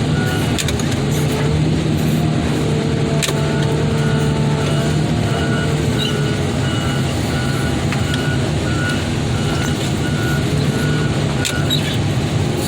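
Heavy equipment's diesel engine running steadily, with a reversing alarm beeping about twice a second from a couple of seconds in until near the end. A sharp knock comes about three seconds in and another near the end.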